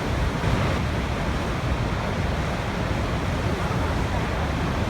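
Waterfall: water pouring and rushing in a steady, unbroken roar.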